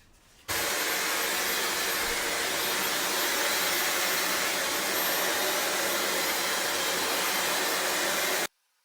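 Dyson Supersonic hair dryer blowing through its styling concentrator nozzle: a steady rush of air that starts about half a second in and cuts off abruptly near the end.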